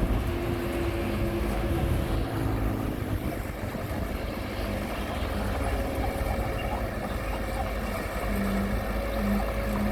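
Komatsu D20P bulldozer's diesel engine running steadily, a continuous low rumble with a faint held hum.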